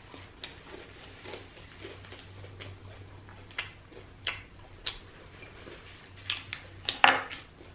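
Close-miked eating sounds: a few scattered sharp mouth clicks and soft smacks from chewing, more of them near the end, with faint rustling of a paper napkin being wiped over the fingers.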